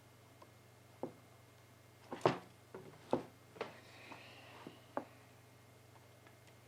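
Scattered small clicks and taps of hands handling small metal and plastic parts and tools while working on an electric chainsaw's motor brushes, the loudest tap a little over two seconds in, over a faint steady hum.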